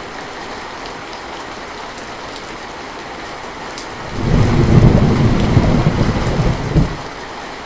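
Heavy rain falling steadily. About four seconds in, a loud low rumble of thunder rises over it and lasts about three seconds, then stops fairly abruptly.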